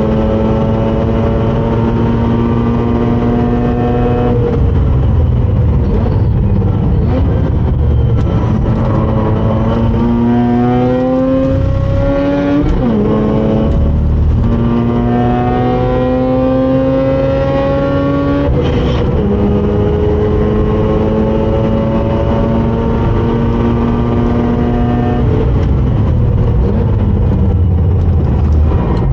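Mazda RX-8's rotary engine under hard acceleration on track. It climbs slowly in pitch and drops sharply at gear changes about four, thirteen and nineteen seconds in, over steady road and wind noise.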